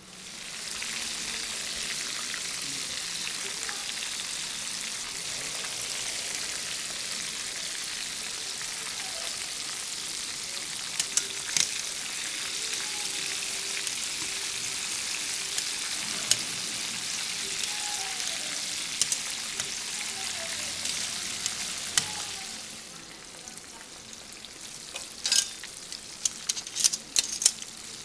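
Breaded oysters deep-frying in hot canola oil in a saucepan: a steady, dense sizzle that swells up about a second in as they hit the oil. Near the end the sizzle drops quieter and a run of sharp clicks and pops breaks through.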